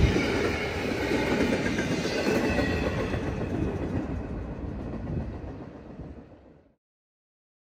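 Freight train cars rolling past on the rails, wheels clattering with a faint squeal, the sound fading away over several seconds. About seven seconds in, the sound cuts off to complete silence.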